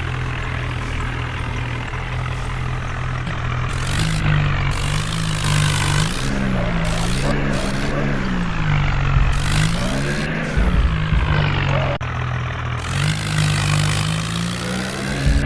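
A tractor's engine runs steadily, with a song that has a wavering sung melody playing loudly over it.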